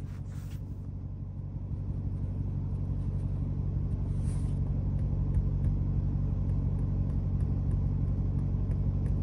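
Dodge Hellcat's supercharged 6.2-litre V8 running with a steady low rumble, heard from inside the cabin, growing gradually louder.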